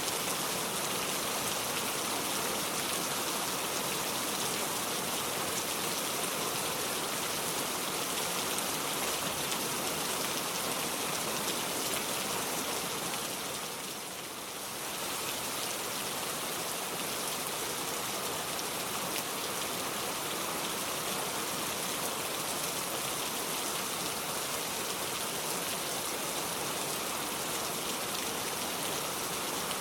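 Steady rain, an even hiss, dipping briefly in loudness about halfway through.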